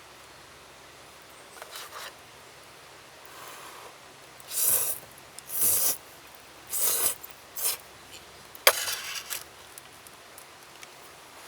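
A series of about seven short scraping or rasping strokes, irregularly spaced, the sharpest one starting with a click near the end.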